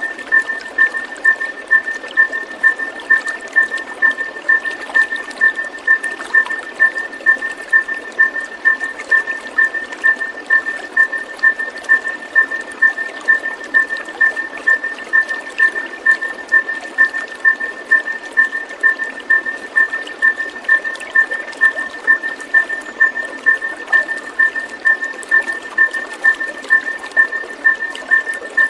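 Steady rushing of running water with a high pulsed call or tone repeating evenly about twice a second, part of a looped bird-therapy soundtrack.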